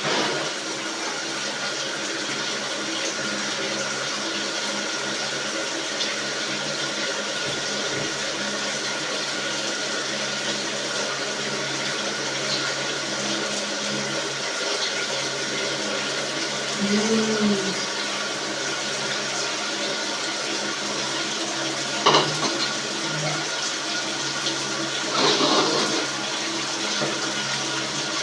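Dishwasher running a wash cycle: steady rushing water with a low pump hum, and a few brief knocks near the end.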